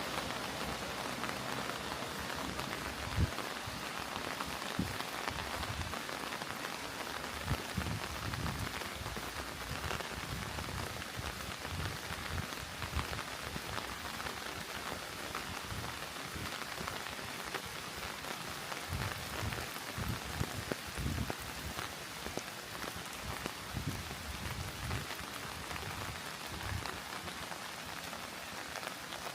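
Steady rain falling, an even hiss, with scattered short low thuds underneath.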